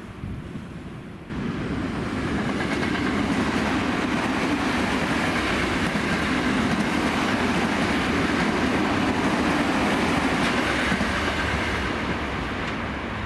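Tokyo Metro 10000 series electric train running past on the rails, wheels clattering over the track. It starts suddenly about a second in and stays loud and steady, easing slightly near the end.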